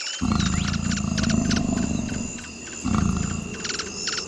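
Jaguar growling, two deep rough growls: a long one of about two seconds just after the start and a shorter one about three seconds in. A chorus of pulsed night insect or frog trills runs underneath.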